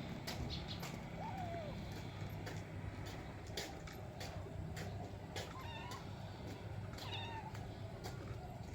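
A cat meowing a few times, short calls that rise and then fall in pitch, over a steady low hum and scattered light clicks.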